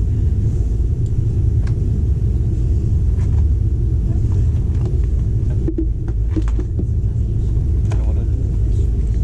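Steady low rumble of a moving passenger train heard from inside the carriage, with a few faint knocks.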